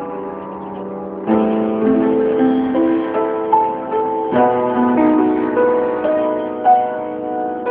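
Piano playing a slow ballad: sustained chords with a melody line over them, fresh chords struck about a second in and again a little past the middle.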